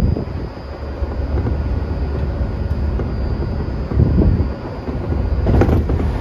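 Tokyu 2020 series electric multiple unit running between stations, heard from inside the car: a steady rumble of wheels on the rails. Heavier knocks come at the start and about four seconds in, and a quick run of sharp clicks near the end.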